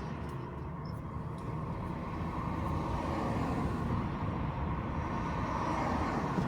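A car driving on city streets: steady road and engine noise that swells slightly midway.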